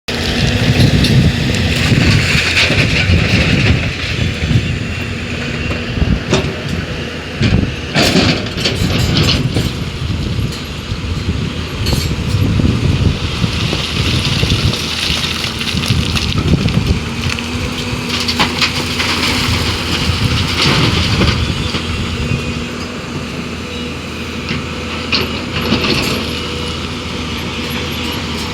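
Hyundai 215 excavator's diesel engine running steadily under working load, with rough crunching and scraping as the bucket digs and dumps material. A sharp knock comes about eight seconds in.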